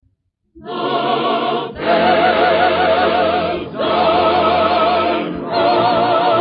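Choir singing a slow hymn in long held chords that change about every two seconds, with a strong wavering upper line, in the dull, treble-less sound of an old radio recording. It starts after a brief break of about half a second.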